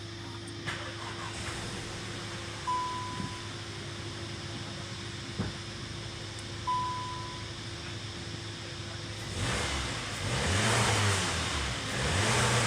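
VW Golf engine idling steadily, then revved twice near the end, each rev rising and falling back. Two short high beeps sound about four seconds apart during the idle.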